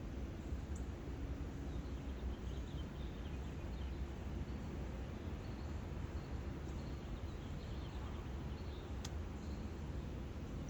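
Birds chirping faintly in short scattered calls over a steady low rumble of background noise, with one sharp click near the end.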